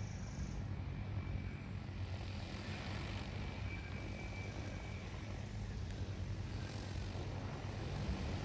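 Agricultural spray drone's rotors humming steadily in flight.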